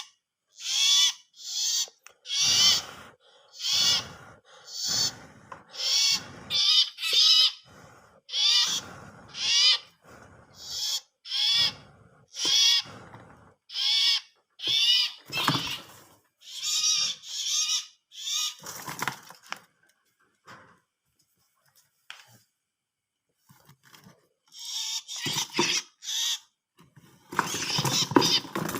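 A small wild-caught bird held in the hand giving repeated harsh distress squawks, about one a second, falling silent for a few seconds and then calling faster again near the end.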